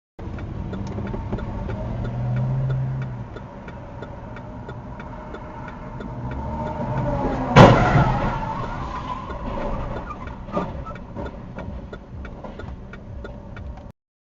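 A car's engine and road noise with a regular ticking throughout, and one loud crash impact about seven and a half seconds in.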